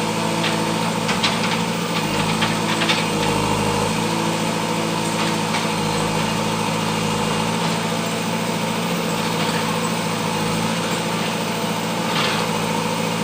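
Backhoe loader's diesel engine running steadily, with a few short knocks in the first few seconds and another near the end.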